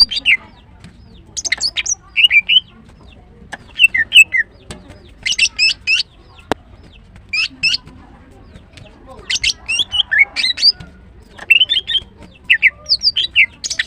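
Female greater green leafbird chirping in breeding condition: short clusters of quick, high, warbled notes, repeated about every second. A single sharp click comes about six and a half seconds in.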